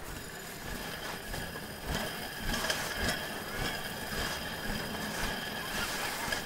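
Dog sled running along a snowy trail: the sled and its rigging rattle and creak with irregular clicks over a steady hiss and a faint high whine.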